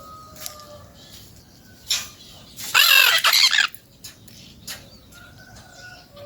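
Peach-fronted parakeet giving a loud, harsh, grating call lasting about a second, midway through, after a shorter call. Faint whistles of other birds and small clicks can be heard around it.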